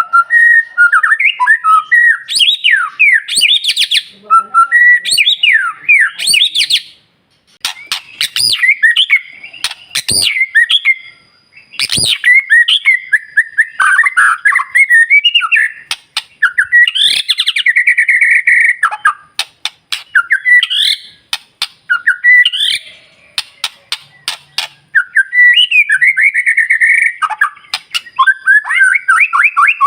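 White-rumped shama (murai batu) singing a long, varied song of quick whistled notes and rapid trills, mixed with sharp clicking notes, in phrases broken by short pauses every few seconds.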